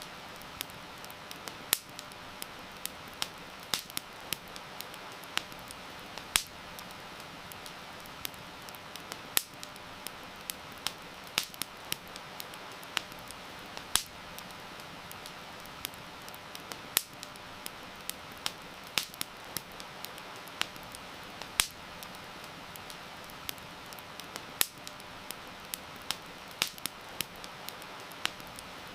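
Wood fire crackling, with irregular sharp pops a few times a second and now and then a louder snap, over a steady hiss of heavy rain.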